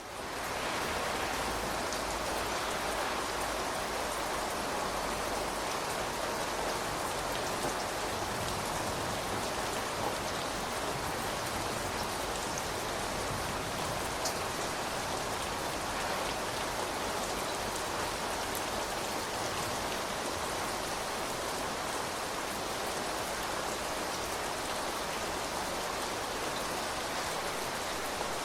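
Steady rain falling, an even dense patter with an occasional single drop standing out. It swells in over the first second, then holds level.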